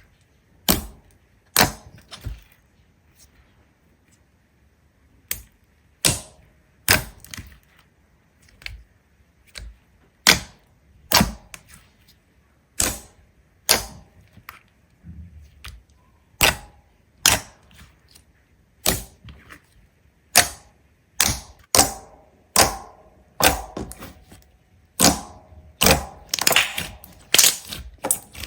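A series of sharp clicks or snaps, spaced irregularly at roughly one a second and coming closer together near the end.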